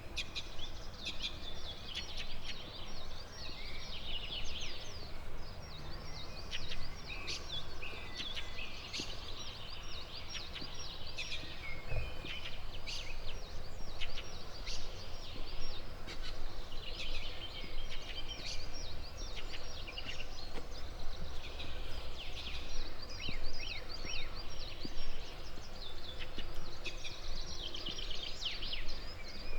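Several songbirds singing and chirping, with many short, quick calls throughout, over a steady low background rumble.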